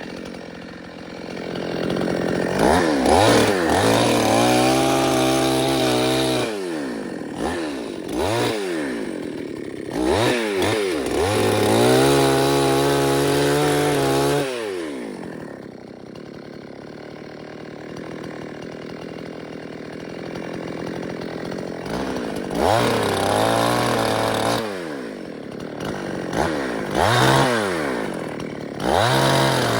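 Petrol chainsaw revving up to full speed and holding for a few seconds at a time, then dropping back to idle, several times over. There are short blips of throttle between the longer revs and a longer stretch of idling midway.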